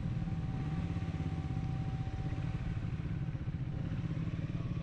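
Triumph Speed 400's single-cylinder engine running steadily while the motorcycle is ridden, a low, even pulsing.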